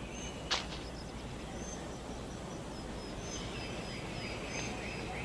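Rainforest ambience: a steady background hiss with a run of short, high chirping calls from small animals, and a single sharp click about half a second in.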